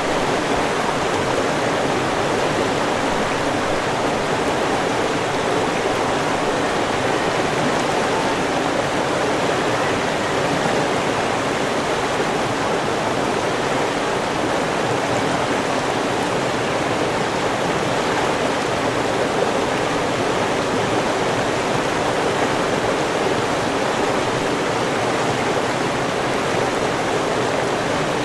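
River water flowing and rushing steadily over rocks, a continuous even rush with no changes.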